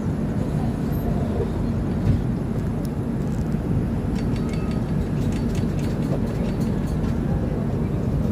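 Indian Railways train running: a steady low rumble, with faint light clicks from a couple of seconds in.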